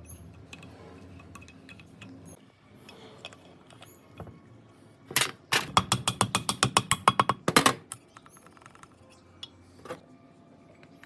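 A fast run of mechanical clicks, about ten a second for two to three seconds, each with a slight metallic ring, after a low hum that stops about two seconds in.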